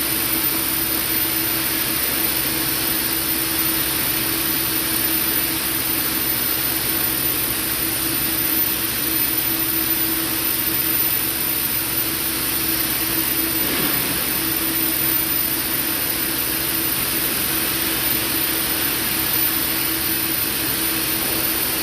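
Steady machinery noise: a constant hiss with a low steady hum under it, unchanging throughout and cutting off abruptly at the end.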